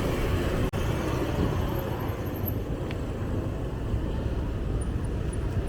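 Street ambience recorded from a moving bicycle: a steady low rumble of wind and passing traffic, broken by a momentary dropout just under a second in.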